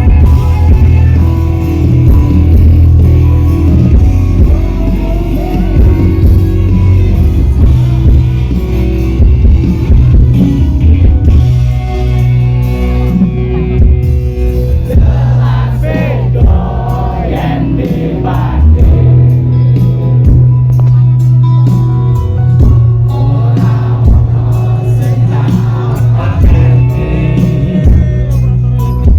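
Loud live campursari band music with a singer over heavy bass, played through a concert PA.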